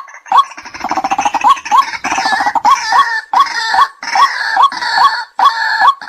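White-breasted waterhens calling: short repeated "kwak" notes, joined from about half a second in by a rapid, harsh chattering run and overlapping calls that make a dense chorus, thinning back to single notes near the end.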